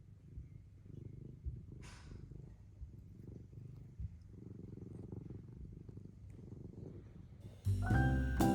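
A cat purring close up, a steady low rumble. Music comes in near the end.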